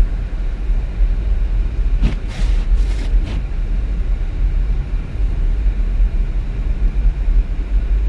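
A car driving, with a steady low rumble of engine and road noise. A few short bursts of hiss come around two to three seconds in.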